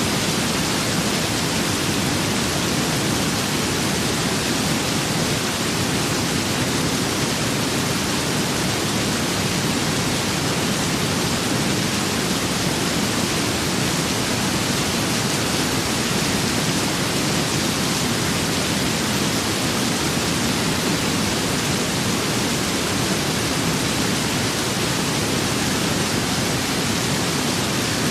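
Steady rain with wind, an even, unbroken hiss with no single drops, gusts or thunder standing out.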